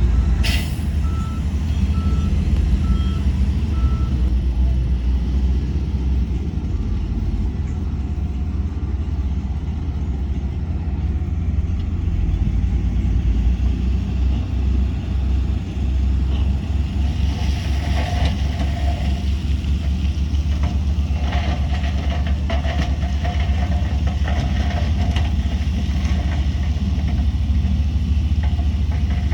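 Heavy diesel earthmoving machinery running under load, with a reversing alarm beeping steadily for the first few seconds. From about halfway through, repeated metallic rattling and clanking sound over the engine.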